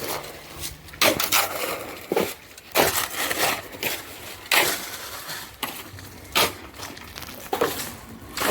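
Shovels scraping and crunching through a wet mix of sand, cement and stones during hand mixing of concrete, in gritty strokes about a second apart at an uneven pace.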